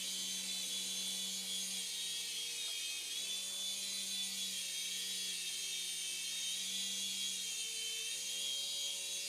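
Small battery-powered toy police helicopter hovering: a steady electric motor whine and rotor buzz, its pitch wavering slightly as it is steered down toward its landing pad.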